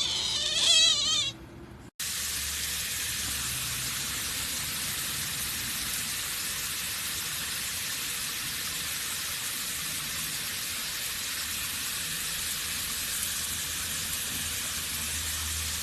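An otter's high, wavering squeaking chirps in the first second or so. Then, after an abrupt cut, a steady even hiss like static.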